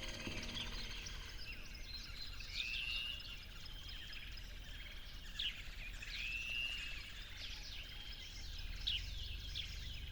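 Birds singing outdoors: one bird repeats an arched whistled call every few seconds, while others add short chirps, over a faint low background rumble.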